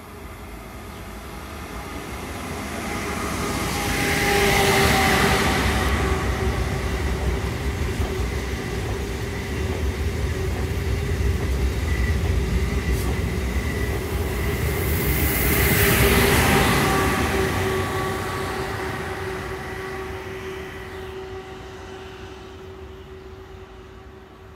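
Renfe AVE Class 106 (Talgo Avril) high-speed train passing close by on the track beside the platform. Its rumble builds to a peak about five seconds in, stays loud with a second peak around sixteen seconds, and fades as it goes away, with a steady hum running through the pass.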